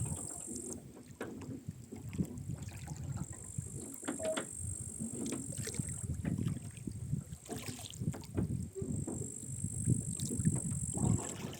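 A rowboat being rowed with oars: the oars splash and gurgle in the water with each stroke, and the oarlocks click and creak. A steady high hiss comes and goes in stretches of a few seconds.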